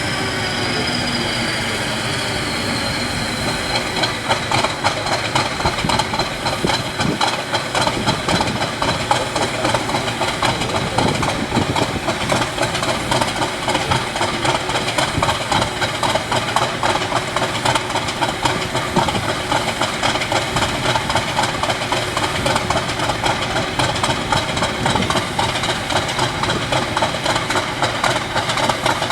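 Class 50 diesel locomotive's English Electric 16-cylinder engine running. A high whine falls in pitch over the first few seconds, then the engine settles into a steady run.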